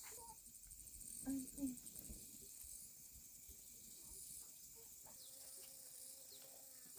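Insects chirring steadily, high-pitched with a fast pulsing, and two brief low sounds about a second and a half in.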